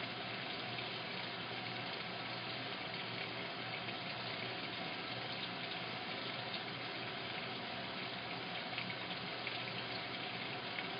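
Washing machine filling with water: a steady rush of water flowing into the drum.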